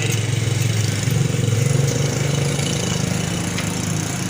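Old 100 cc single-cylinder motorcycle engine running steadily at idle, a little louder about a second in.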